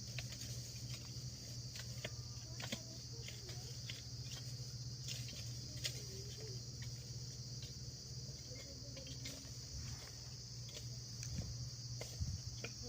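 A steady chirring of crickets, a continuous high-pitched drone, over a low steady hum, with scattered faint clicks.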